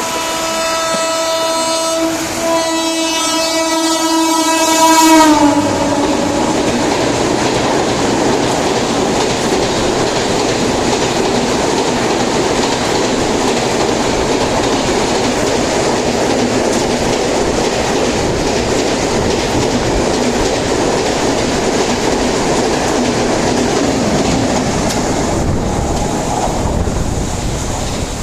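A WAP-7 electric locomotive sounds its horn in two blasts at full speed. The pitch drops as it passes. Then the Rajdhani Express coaches rush by with a steady roar of wheels on rail, fading near the end.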